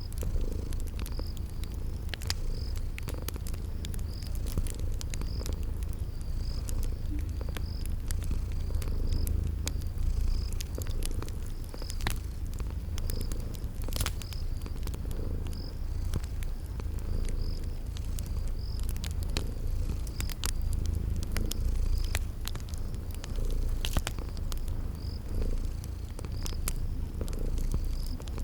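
Domestic cat purring steadily in a deep, continuous rumble, with a wood fire crackling in scattered sharp pops and crickets chirping in a regular high pulse.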